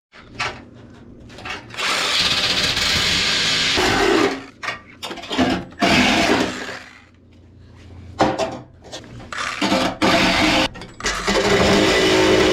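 Power tool trimming sheet steel for a rust-repair patch, run in four bursts of one to two seconds each with short pauses between.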